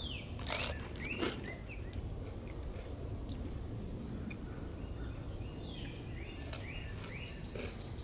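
Small birds chirping in short, repeated, quick gliding calls, over a steady low outdoor background noise, with a few sharp dry crunches.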